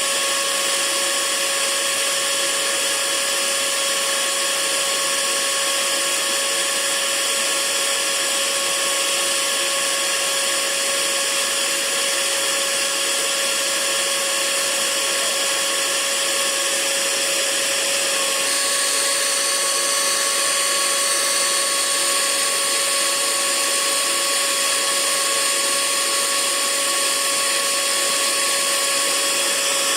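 Hair dryer running steadily: a constant hiss of rushing air over a steady motor whine, its tone shifting slightly about eighteen seconds in.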